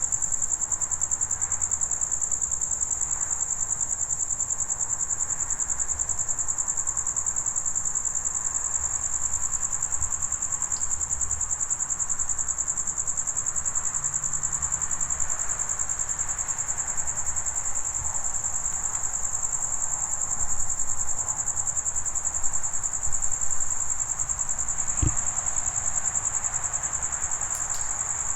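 A cricket trilling without a break: one high, steady pitch pulsing in a fast, even rhythm.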